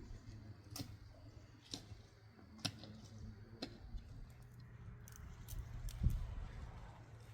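Sharp taps or knocks, about one a second for the first few seconds, over a steady low hum, with a dull thump near the end.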